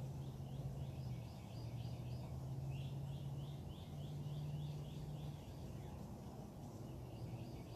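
Birds singing: quick series of repeated high chirping notes, several a second, over a steady low hum.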